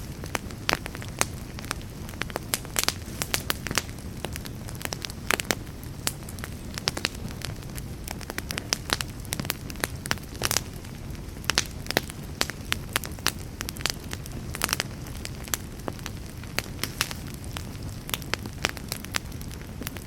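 Campfire burning, wood crackling and popping with many irregular sharp snaps over a low steady rush of the flames.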